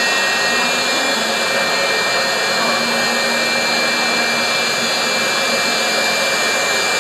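Jet truck's turbine engine running steadily, a loud even roar with a high-pitched whine held over it.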